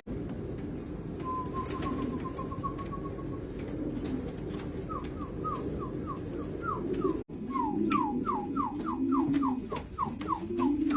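Pomeranian pouter pigeons cooing in low, arching coos, clearest in the second half. Over them a higher, quick, repeated chirping note sounds about three times a second, from another bird.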